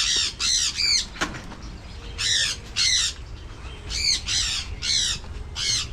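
Parrots squawking: about a dozen short, harsh calls in quick clusters. There is a single sharp click about a second in.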